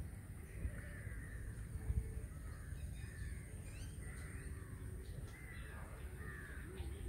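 Birds calling, short arching calls repeating every second or so, over a low rumble.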